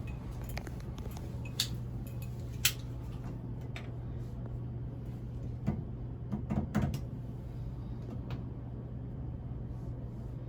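Scattered small clicks and scrapes of hands picking old thread seal tape off the metal threads of a shower arm, over a steady low hum.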